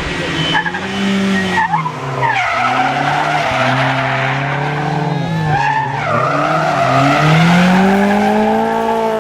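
Historic rally car engine at high revs on a stage, its pitch climbing and dropping sharply twice, about two and a half and five and a half seconds in, then climbing again, with the tyres squealing.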